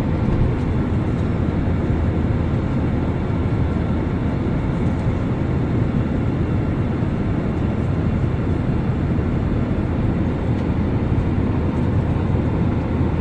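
Steady rumble of a passenger airliner's jet engines and rushing air, heard inside the cabin, with a faint steady whine and no change in pitch or level.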